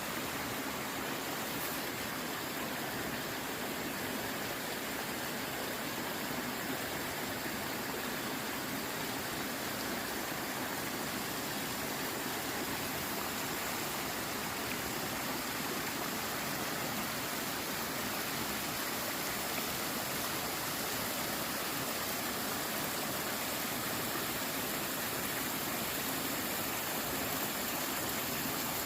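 Mountain stream rushing over rocks in a steady, even rush of water with no pauses.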